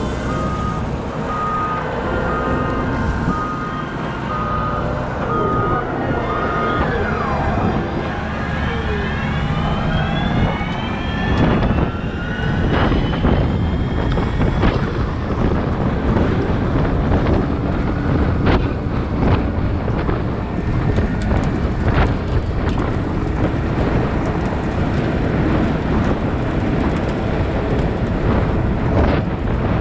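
Cat 972M XE wheel loader working at close range, engine running loudly. For the first seven seconds a reversing alarm beeps steadily. Several rising whines follow as the machine drives and lifts, then many sharp knocks and clatters continue to the end.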